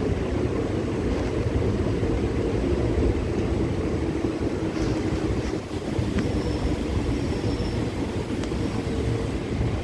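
Steady rumble of a moving ICF passenger coach, its wheels running over the rails, heard from the coach's doorway. A faint high squeal briefly rises above it about six seconds in.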